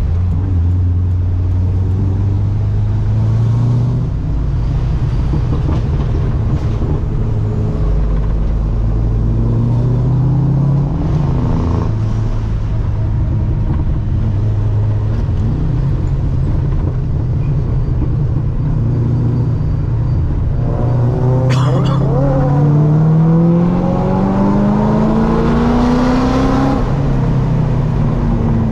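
ProCharger-supercharged Corvette C6 LS3 V8 running at fairly steady revs on the move. About two-thirds of the way in it accelerates, its engine note climbing for several seconds with one brief dip, then easing off near the end.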